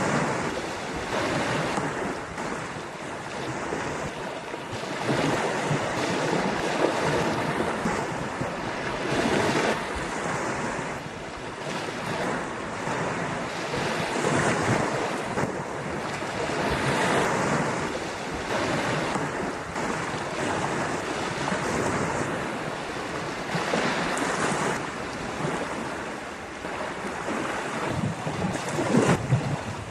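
Ocean surf breaking on a sandy beach, a continuous wash that swells and falls every few seconds, with wind buffeting the microphone.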